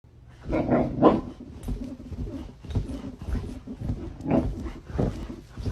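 A dog making a series of short, irregular vocal noises, loudest about a second in.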